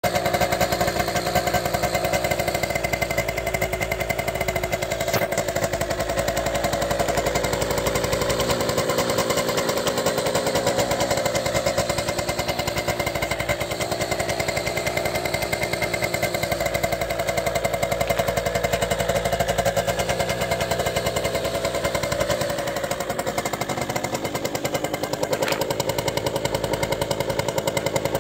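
Small 50cc scooter engine running with a rapid, steady putter, its tone shifting a little now and then.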